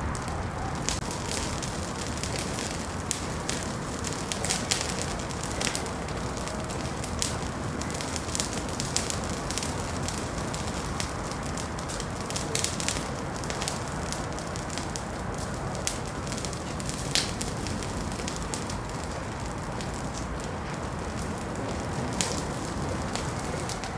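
Wood fire crackling in a fireplace: a steady soft hiss under irregular sharp pops and snaps, a few of them louder.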